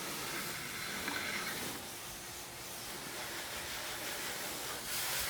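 Water jetting from a pressure hose nozzle onto a car's body as it is rinsed, a steady hiss of spray that grows a little louder near the end.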